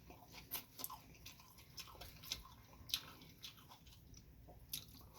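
A person chewing food close to the microphone, with small clicks at irregular moments.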